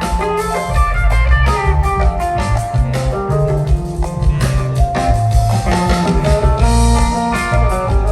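Rock band playing a jam: electric guitar picking a melody line over bass and drum kit.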